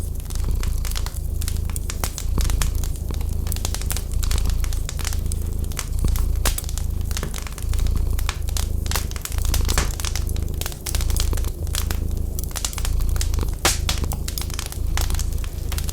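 Wood fire crackling and popping with many sharp snaps, over a cat's deep purr that swells and eases about once a second as it breathes in and out.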